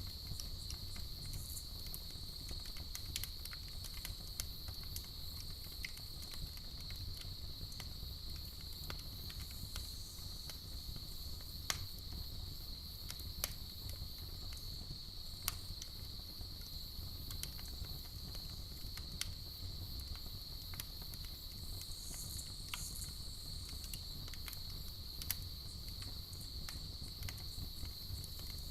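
Crickets chirring steadily over a campfire crackling, with scattered small pops and a few sharper snaps.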